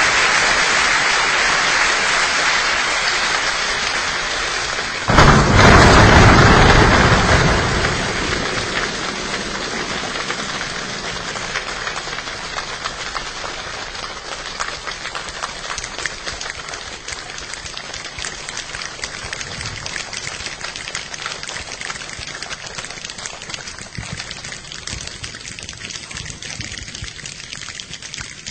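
A group of people imitating a rainstorm with body percussion, making a dense patter like rain. About five seconds in it suddenly swells into a loud downpour for a few seconds, then gradually dies away to a thinner patter.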